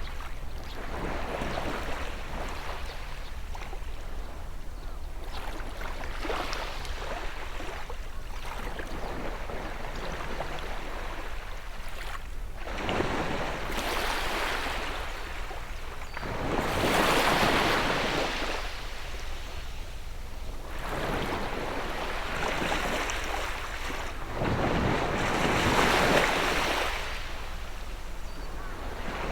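Sea waves breaking and washing onto the shore in slow surges, the bigger ones about halfway through and again a few seconds before the end.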